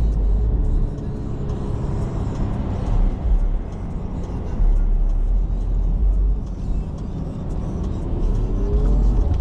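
Inside the cabin of a BMW 540i moving in slow traffic: a steady low rumble of engine and road noise. Near the end there is a short rise in pitch.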